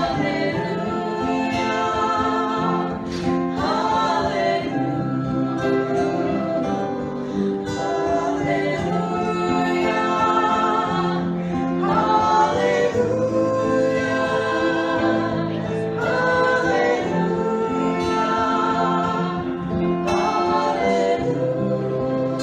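Singing over a plucked guitar accompaniment, with long held notes.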